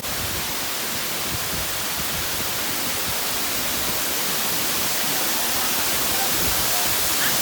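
Steady rush of water falling at a waterfall, an even roar with no break.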